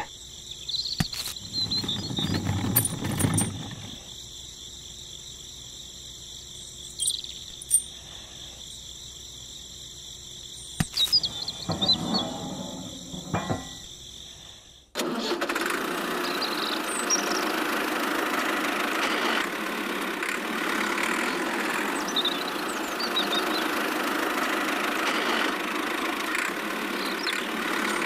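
Small clicks and rustles of the toy tractor's trailer hitch being handled over a faint high whine; about halfway through, a steady engine-like running noise cuts in suddenly and carries on as the miniature tractor drives.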